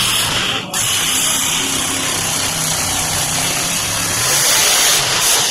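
Monster truck engine running loud and steady, its pitch shifting slightly, with a brief drop under a second in.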